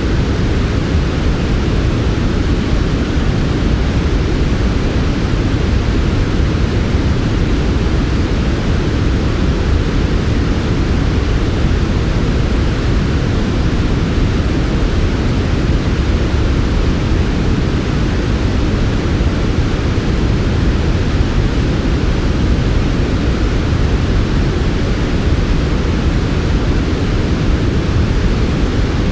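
Steady generated white noise for sleep, unchanging and even, with its weight in the low end so it sounds deep and soft rather than bright and hissy.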